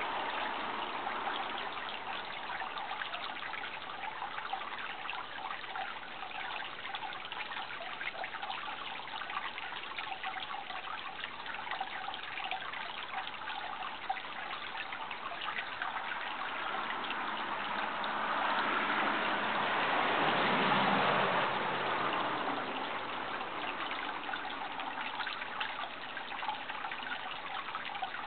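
Steady rushing of running water, swelling louder for a few seconds about two-thirds of the way in.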